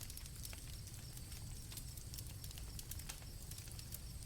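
Campfire crackling with scattered small pops, over crickets chirping steadily at night.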